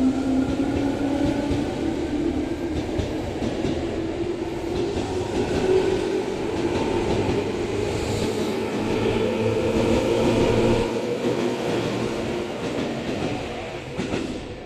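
Tobu 10030 series electric train pulling out and gathering speed, its traction motors whining upward in pitch over the rumble of wheels on rail. The sound fades in the last few seconds.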